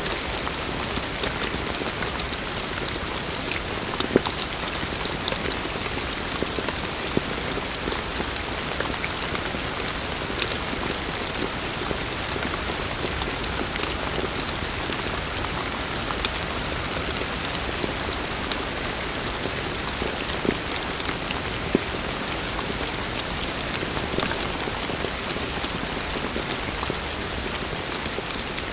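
Heavy rain falling steadily, a dense even hiss with close drops pattering and ticking on surfaces; a few louder single drop hits stand out, around 4 s and 21 s in.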